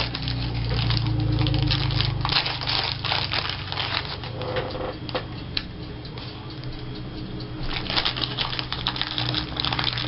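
Plastic craft buttons clicking and rattling against each other as they are sorted through and picked out, in many small irregular clicks. A low hum sits under the first couple of seconds.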